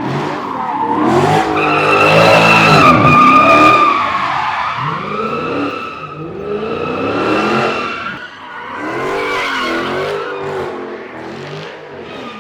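A car engine revving hard in about three rising and falling surges while its tires squeal against the pavement, loudest about two to four seconds in.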